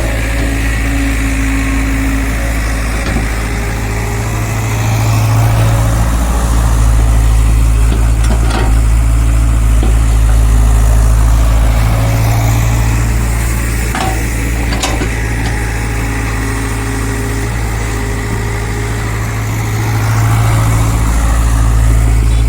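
Diesel engine of a JCB 3DX backhoe loader running steadily, rising in level twice as it works under load, with a few short clanks.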